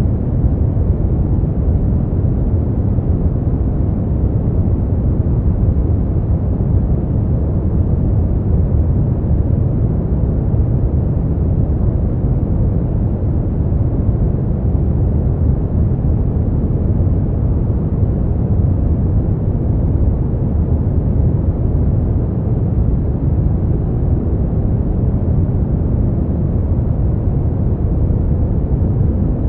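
Brown noise: a steady, deep rumbling hiss, strongest in the bass and falling away toward the treble, with no changes or events.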